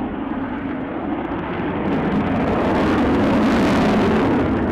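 Avro Vulcan's four Rolls-Royce Olympus turbojets roaring in a flypast, growing louder about two seconds in as the bomber passes.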